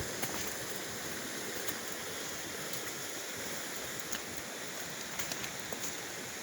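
Steady rush of flowing creek water, with a few faint ticks scattered through it.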